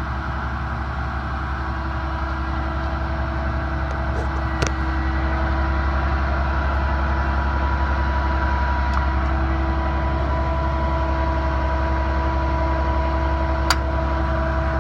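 Bucket truck's 7.8-litre Isuzu Duramax diesel running steadily with a steady hydraulic whine, the boom being stowed. A sharp click about four and a half seconds in and another near the end.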